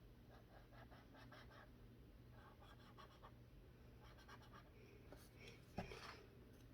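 Faint strokes of a brush-tipped marker being worked back and forth on paper while colouring, with a small knock about six seconds in.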